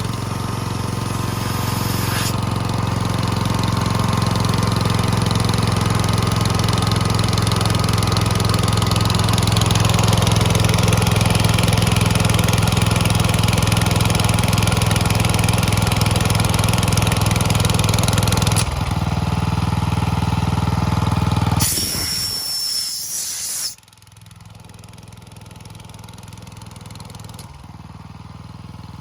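Iwata COMG L22-10 engine-driven air compressor running steadily at a loud, even note. The engine sound changes a little after about nineteen seconds and cuts off a few seconds later. A burst of hissing air follows, then a much quieter hiss.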